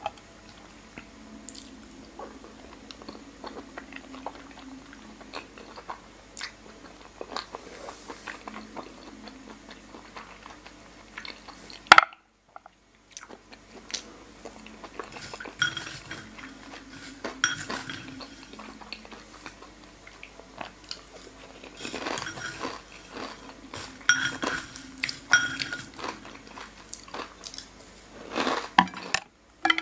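Wet chewing and mouth smacks of someone eating soy-marinated raw salmon, with small clicks of chopsticks against the plate. One sharp click about twelve seconds in is followed by a brief dropout.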